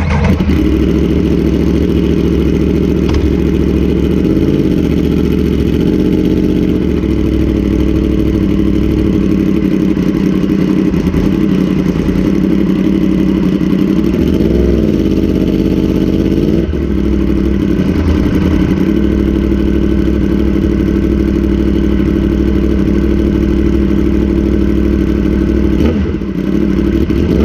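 Motorcycle engine running steadily under way. Its pitch shifts briefly a few times, as with gear changes or throttle changes.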